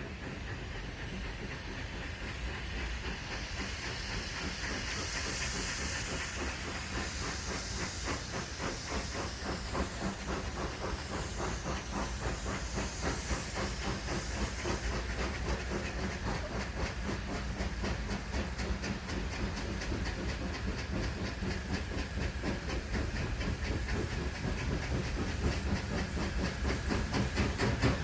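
Steam locomotive working and coming closer: steam hissing over a rapid, even beat, the sound growing steadily louder.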